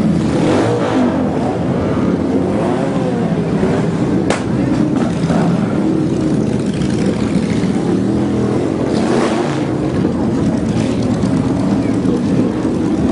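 Several motorcycle engines running and revving together, their pitches rising and falling over one another, with a sharp click about four seconds in.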